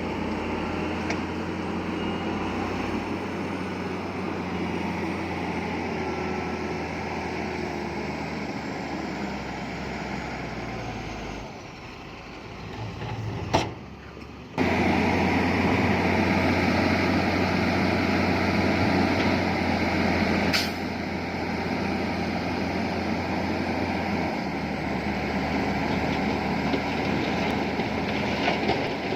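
Heavy diesel earthmoving machinery, a bulldozer and dump trucks, running steadily at work. The sound drops away about twelve seconds in, with a sharp click, then comes back suddenly louder a couple of seconds later. A brief sharp sound comes a few seconds after that.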